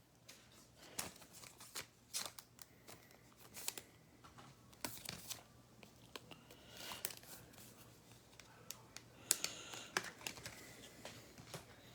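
Faint, scattered rustling and light clicks of baseball trading cards and their plastic sleeves or wrappers being handled and sorted.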